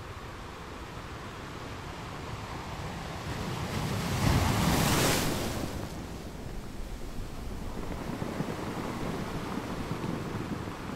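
Wind on the microphone and waves on open water, a steady rushing noise. About four seconds in, a loud rush swells up and fades over a second or two.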